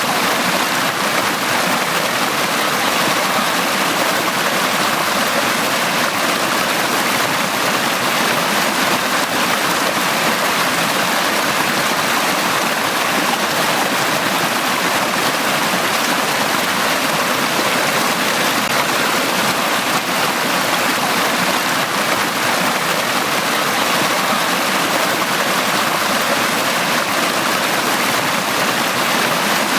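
A forest stream running steadily over rocks, a constant rushing and babbling of water.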